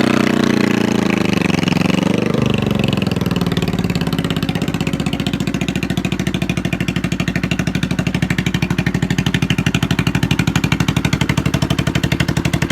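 1971 Honda CB350's air-cooled parallel-twin engine, its speed rising and falling in the first couple of seconds, then settling into a steady idle with an even pulsing beat.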